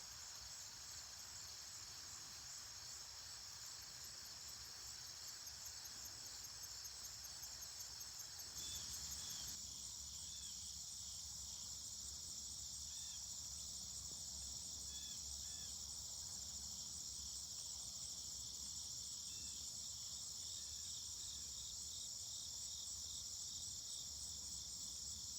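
Steady high-pitched chorus of insects trilling outdoors, a little louder from about nine seconds in, with a few faint short chirps over it.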